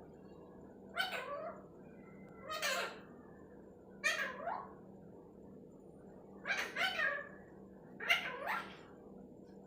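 Pet parrot calling: a string of short, falling cries, about seven, some in quick pairs.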